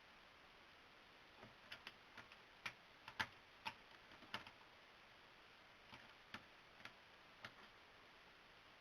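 Irregular light clicks and taps from a cat batting and pouncing on its toys: about a dozen, clustered in the middle of the stretch, some in quick pairs.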